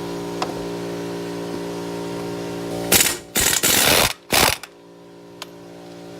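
Power impact wrench firing in three short bursts about three to four and a half seconds in, loosening the brake caliper bolts on a Ford F-150's front hub, over a steady background hum.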